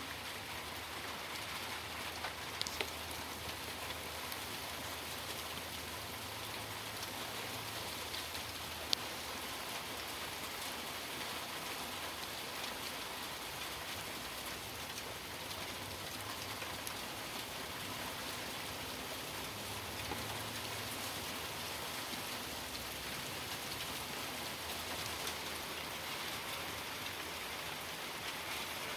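Steady patter of rain mixed with sleet falling on surfaces, with a few sharp ticks.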